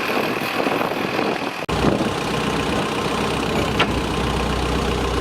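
Farm tractor engine running steadily. About a second and a half in the sound breaks off abruptly and comes back with a deeper, heavier rumble underneath.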